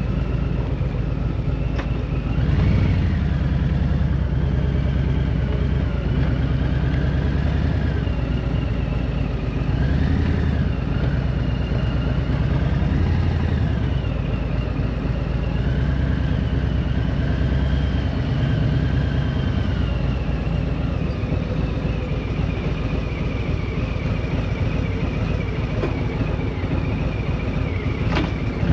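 A vehicle engine running on the move, with steady road and engine noise and its pitch rising and falling several times as it speeds up and eases off.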